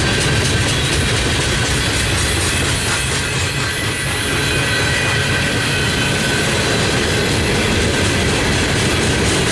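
Train rolling past, its steel wheels running on the rails with a steady rumble and faint thin high squealing tones.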